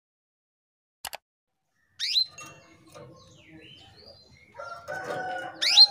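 Female canary call notes: two sharp, high calls that sweep quickly downward in pitch, about 2 s and 5.7 s in, after a near-silent start with a single click. These are the calls of a hen canary in breeding condition calling to a male. Fainter, lower bird calls sound in the background before the second call.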